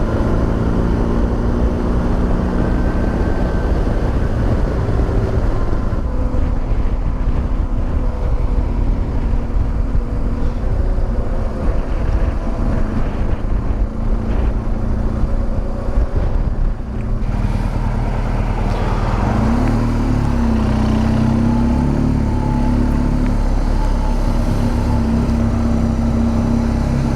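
BMW R1200GS boxer twin engine running under way, its pitch shifting with throttle and gear changes, rising about two-thirds of the way through and then holding steady. Wind noise rushes over the microphone.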